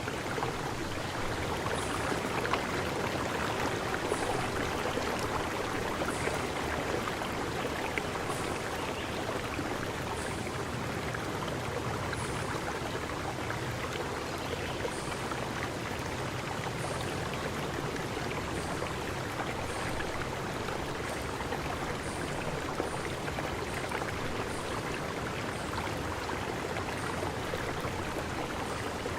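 Steady rush of flowing stream water, with faint short high chirps repeating every second or two.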